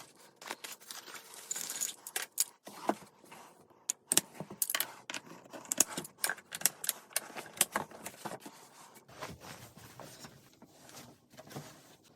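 Irregular clicks, clacks and rustling of a folding campfire chair being handled, its frame knocking and its fabric shifting. The clicks come thickest about four to eight seconds in.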